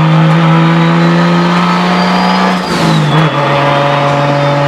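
Turbocharged Toyota 2JZ-GTE straight-six pulling hard, with a high turbo whistle climbing as it spools. About two and a half seconds in, a brief rush of air and a drop in engine pitch mark a gear change. The engine then pulls again at lower revs.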